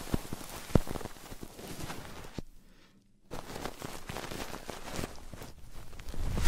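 Close-miked ASMR triggers: dense, irregular crackling and scratching clicks on the microphone. They stop for about a second, two and a half seconds in, then start again.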